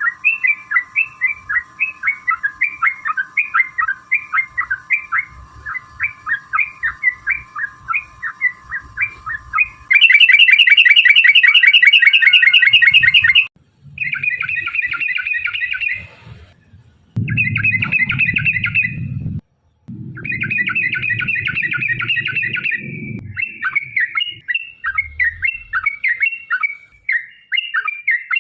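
Yellow-vented bulbul (trucukan) song played from spliced recordings: quick repeated chirping phrases over a faint steady tone, then a louder, very fast rolling trill for about three seconds, followed by short bursts of dense chattering separated by abrupt cuts to silence.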